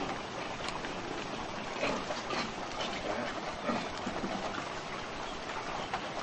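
A flock of caged laying quail moving and pecking: a dense, steady patter of small clicks and rustles with a few brief high chirps.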